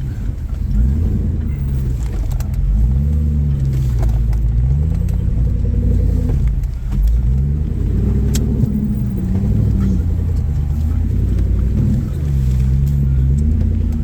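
An off-road vehicle's engine is revved up and down again and again as it crawls over rocks, its pitch rising and falling every second or two under a steady low rumble.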